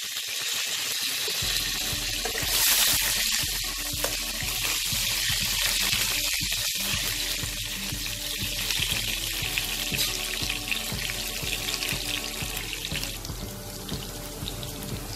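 Potato cubes frying in hot oil in a nonstick kadai: a steady sizzle, loudest about three seconds in, with a spatula stirring them partway through.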